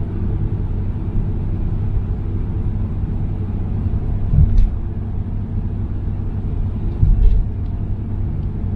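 Steady low rumble of a car on the road, with two brief low thumps, the first about halfway through and the second a couple of seconds later.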